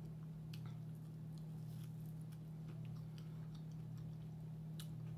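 Close-mic'd mouth-closed chewing of a fried green tomato: a scatter of faint, short crunchy clicks, the sharpest one near the end, over a steady low hum.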